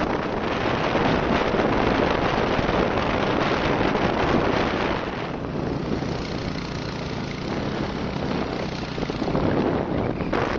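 Wind buffeting the microphone: a loud, continuous rush of noise that eases a little about halfway through.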